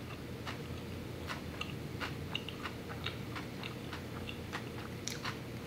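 A person chewing a big mouthful of vegan sushi burrito (nori, rice and raw vegetables) with the mouth closed: soft, irregular crunches and wet clicks, about two or three a second.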